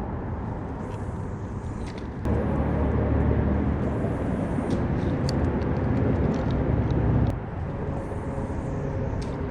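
A motor vehicle passing: a steady low rumble that swells about two seconds in and drops back about seven seconds in.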